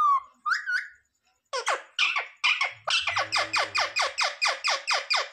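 Pet parrot calling: two short rising whistles, then about a second and a half in, a fast run of harsh, evenly repeated calls, about five a second.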